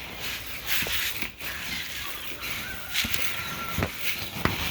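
Hands stirring dry cracked corn and chick feed together in a dish: a rustling, rattling grain sound with a few small clicks. A brief steady high tone sounds for a moment about halfway through.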